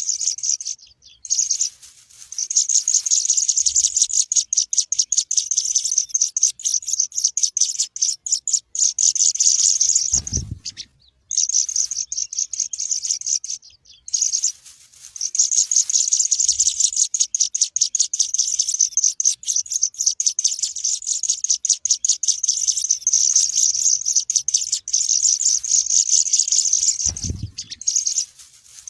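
Burung pipit (munia) chicks cheeping in a rapid, continuous stream of high-pitched calls, broken by a few brief pauses. Two dull low thumps, about ten seconds in and near the end.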